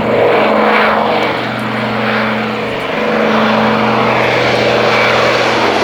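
The two Pratt & Whitney R-1830 Twin Wasp radial engines of a Catalina PBY-5A flying boat running steadily as it flies past.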